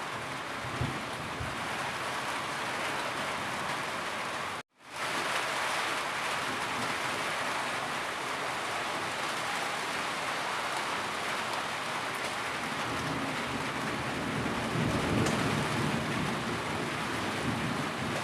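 Steady heavy rain falling as an even hiss. It cuts out completely for a split second a little over four seconds in, then resumes, and a low rumble swells under the rain near the end.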